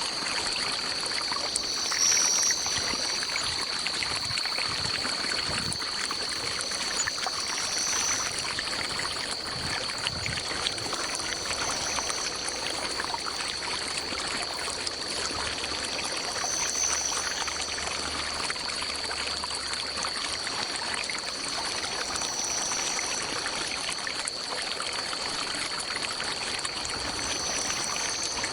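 Small stream running steadily over a steady high-pitched drone, with a short high call repeating six times, about every five seconds.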